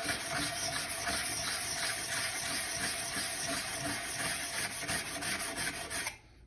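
Steel plane iron being rubbed back and forth on 600-grit abrasive to lap its back flat, giving a steady scraping hiss that stops abruptly about six seconds in.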